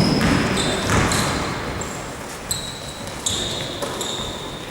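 Basketball play on an indoor court: the ball bouncing in several separate knocks, mixed with short high squeaks of sneakers on the floor, in a reverberant hall.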